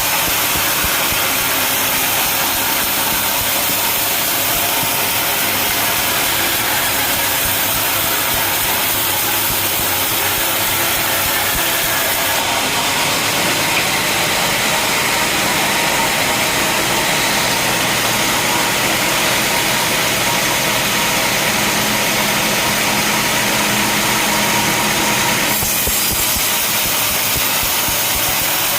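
Sawmill saw and machinery running steadily with a constant hum. From about twelve seconds in until about twenty-five seconds the sound turns brighter and hissier as the blade cuts through a log, then falls back to the plain running sound.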